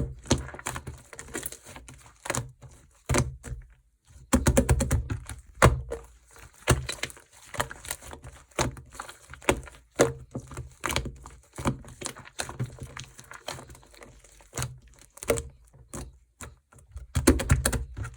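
Marbled slime being pressed and squished by hand, giving irregular sticky clicks and crackling pops, most crowded about four seconds in and again near the end.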